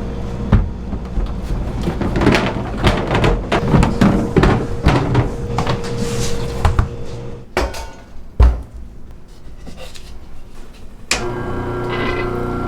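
Kitchen work: a quick run of knocks and clatter, one heavy thud about eight seconds in, then a motor starts and runs with a steady hum near the end.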